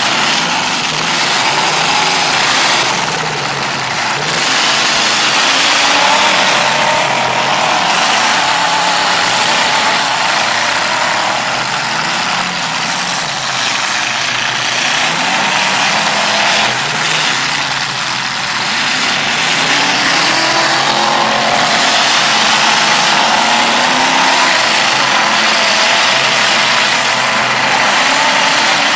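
Several demolition derby cars' engines running and revving at once, their pitches rising and falling over a loud, steady noise.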